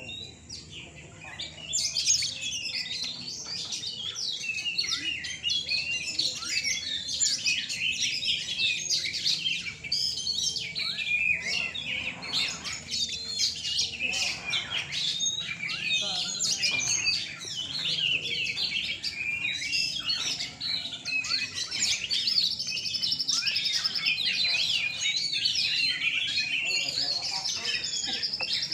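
Many caged Oriental magpie-robins (kacer) singing at once in a contest, a dense, unbroken tangle of fast whistles and chirps that gets louder about two seconds in.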